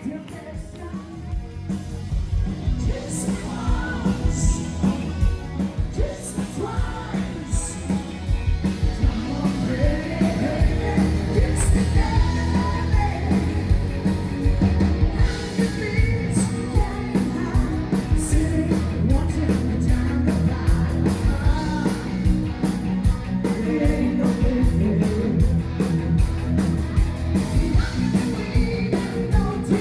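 Live band music with a singer and a steady driving beat, getting louder a couple of seconds in.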